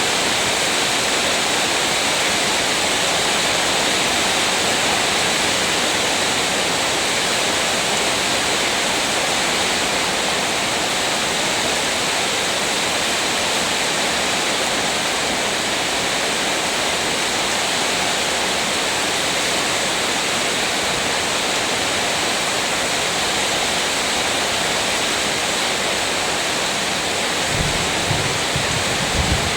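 Heavy rain pouring down in a steady, even hiss. A few low thuds come in near the end.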